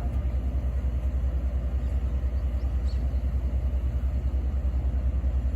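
A steady low mechanical rumble pulsing evenly about ten times a second, like an idling engine or compressor.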